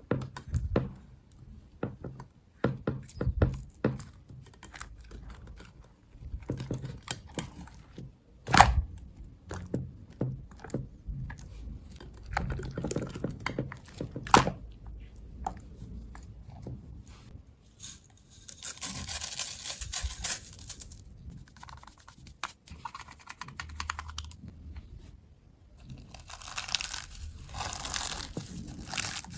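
Slime being squeezed, poked and stretched by hand: a string of sticky pops and clicks, with two longer stretches of dense crackling, about two-thirds of the way in and again near the end.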